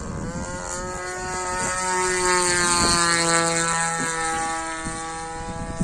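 Single-cylinder two-stroke DLE 20cc gas engine of an RC warbird running in flight. It grows louder for about two seconds and then fades as the plane passes, with wind rumbling on the microphone.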